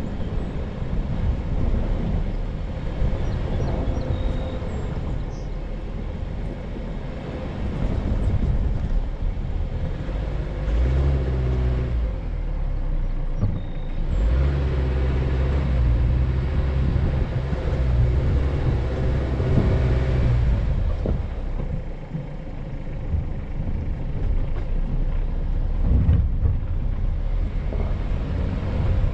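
Off-road vehicle's engine running as it drives slowly over sand, with a low rumble throughout. A steady low engine drone comes up from about ten seconds in and fades about twenty seconds in.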